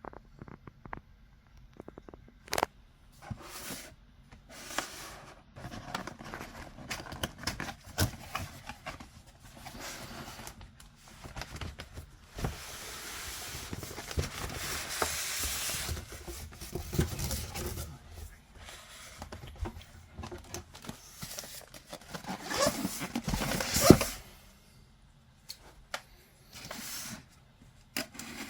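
Hands unpacking a boxed polystone statue: packaging rustling, tearing and scraping, with scattered clicks and light knocks. A longer stretch of rustling comes about halfway through, and a sharp knock, the loudest sound, comes a few seconds before the end.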